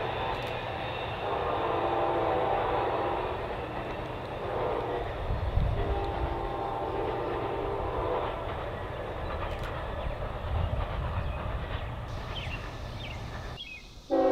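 Diesel locomotive multi-chime air horn sounding the grade-crossing signal: the end of a long blast, then a long, a short and a final long blast, over the low rumble of the train's engines and wheels.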